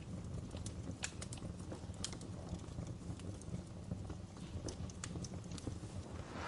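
Wood fire crackling: scattered sharp snaps and pops over a steady low rumble.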